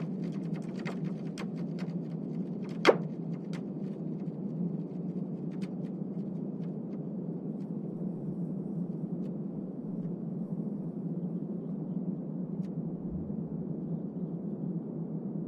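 Seismic recording of the earthquake swarm before the Reykjanes peninsula eruption, turned into sound: a steady low rumble with many sharp cracks and pops. The cracks are dense at first, with one loud crack about three seconds in, then thin out to occasional pops.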